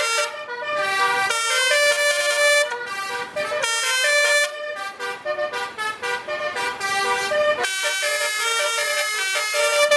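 Basuri truck horn, a multi-trumpet telolet air horn, playing a tune in held notes that step up and down in pitch.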